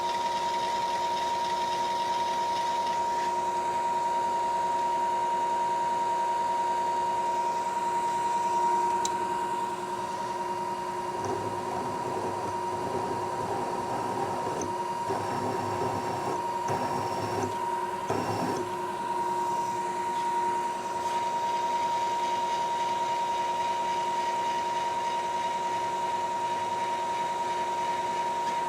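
Manual milling machine running with a steady whine from its spindle drive. In the middle stretch a rougher, gritty sound joins it as the spot drill cuts into the steel plate.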